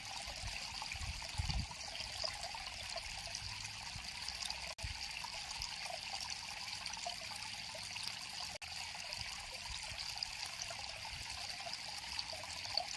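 River water flowing and trickling steadily, with a low bump about a second and a half in and two very brief dropouts.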